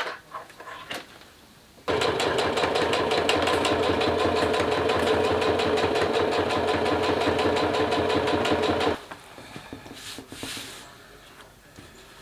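Sewing machine running at a steady speed with a fast even stitching rhythm. It starts about two seconds in and stops suddenly some seven seconds later.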